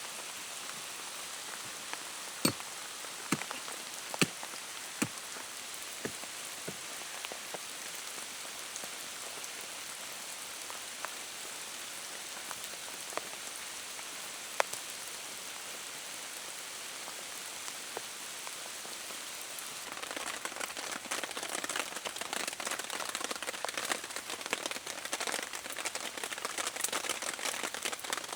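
Rain falling steadily, with scattered heavy drops striking loudly now and then, most of them in the first few seconds. From about twenty seconds in, a louder, dense crackling patter joins in.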